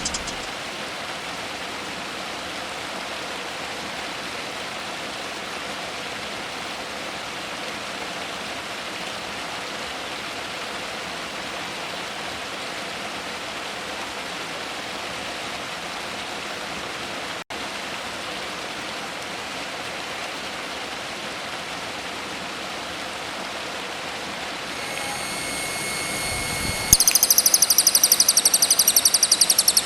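A steady, even hiss like rushing water, with a brief dropout partway through. Near the end a songbird starts a loud, rapid, high-pitched trill of quickly repeated notes.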